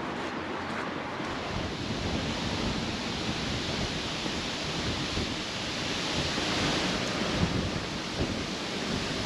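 Wind buffeting the microphone, with uneven low rumbles over a steady rushing hiss outdoors.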